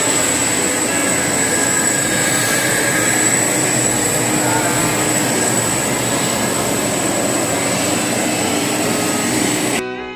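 Jet airliner engine running: a loud, steady rush with a constant high-pitched whine. It cuts off abruptly near the end as guitar music comes in.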